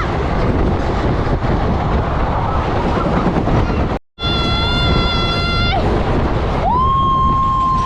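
A train passing close by, a heavy rumble of wheels on the rails, followed by long steady blasts of its horn after a brief break about four seconds in, the last blast starting near the end.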